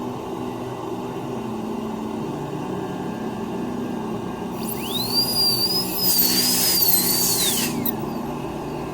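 A dental lab rotary handpiece spinning up to a high whine about five seconds in, wavering with a hiss of grinding contact, then winding down, over a steady low hum.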